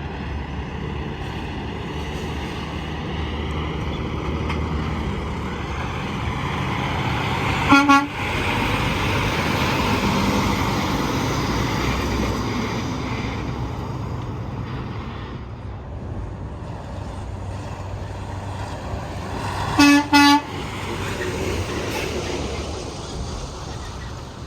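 Steady highway traffic noise from trucks passing at speed, swelling as one goes by. A truck horn gives one short blast about eight seconds in, and two quick toots near the end.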